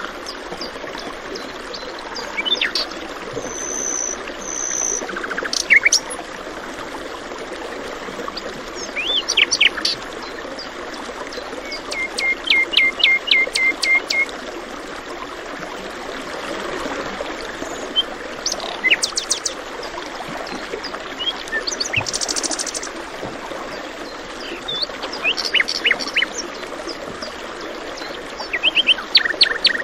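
Several songbirds chirping and calling now and then over the steady rush of flowing water; about twelve seconds in, one bird gives a run of about eight quick, even notes.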